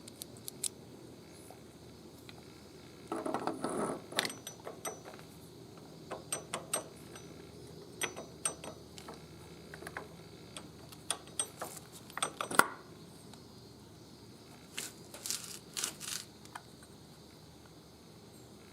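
Metal hand tools and parts clinking and clicking in irregular bursts. There is a short scraping rattle about three seconds in, and the sharpest click comes about two-thirds of the way through.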